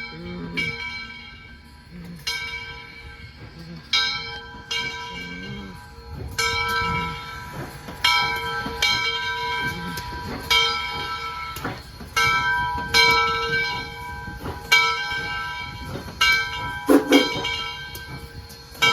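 Locomotive bell on Southern Railway 2-8-0 steam engine 630, ringing steadily at about one stroke a second.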